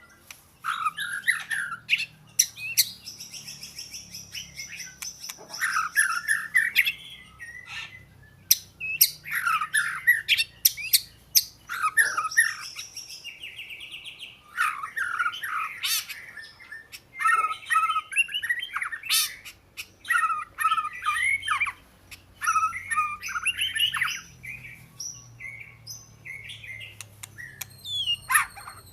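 Oriental magpie-robin singing a varied run of short whistled and chattering phrases, broken by brief pauses and a few sharp clicks.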